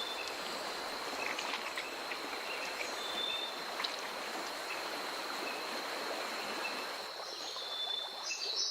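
Running water with a steady, high insect drone above it and a few short, high chirps.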